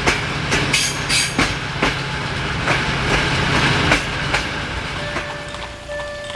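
A train running over rail joints and points, heard from a carriage window: irregular wheel clicks over a steady low hum. Near the end this gives way to a level crossing's warning signal, a repeating electronic tone.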